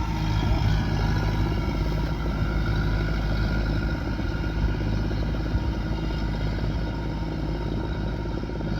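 Rice combine harvester's engine and threshing machinery running steadily under load, a continuous low drone with a broad mechanical clatter above it.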